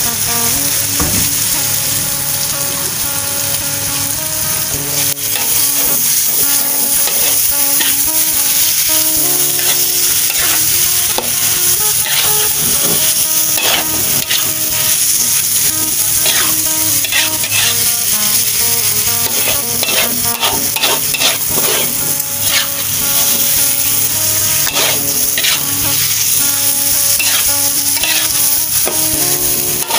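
Beef chunks sizzling as they fry in curry paste in a metal wok, with a metal spatula scraping and stirring through them in repeated strokes that come more often in the second half.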